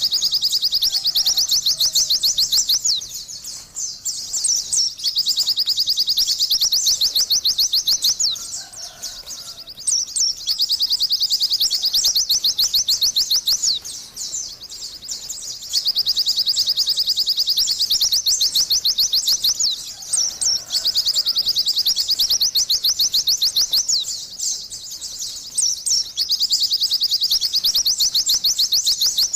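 White-eye (pleci) songbird singing: long runs of rapid, high twittering notes, broken by short pauses every few seconds.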